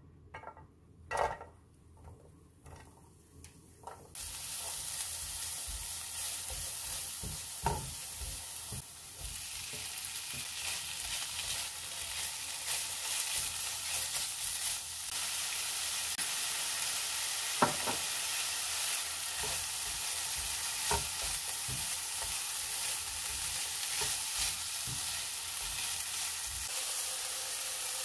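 A few light knocks of a silicone spatula pushing chopped onion off a plate, then from about four seconds in a steady sizzle of garlic, onion and diced chicken frying in oil in a nonstick frying pan. Now and then the spatula taps and scrapes the pan as the food is stirred.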